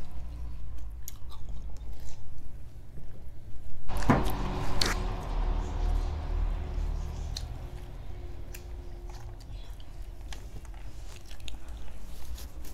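Close-miked chewing and biting of spiced roasted chicken, with small wet mouth clicks throughout. One louder sharp knock about four seconds in.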